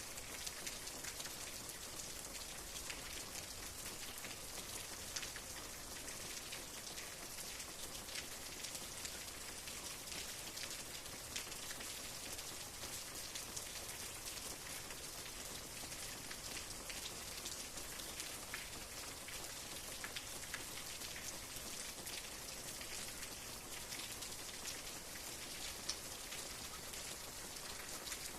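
Steady rain falling, an even hiss with many close, distinct drops ticking on a surface.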